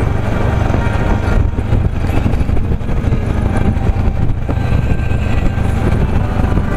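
Harley-Davidson Ultra's V-twin engine running steadily at cruising speed under way, a dense low rumble mixed with road and wind noise.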